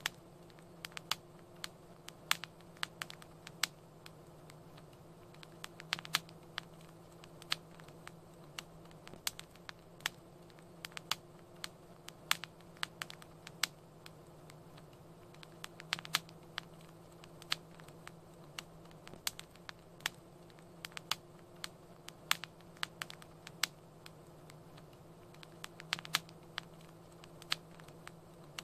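Wood fire crackling in a fireplace: irregular sharp pops and snaps, several a second, over a low steady burning hiss.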